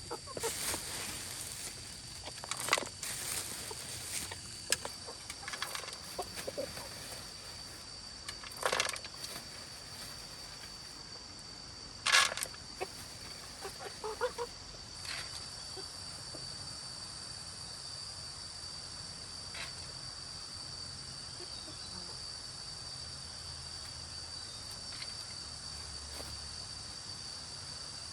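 Chickens clucking now and then, with a few sharp knocks, over a steady high-pitched insect drone. The clucks and knocks fall in the first half; after that only the insect drone goes on.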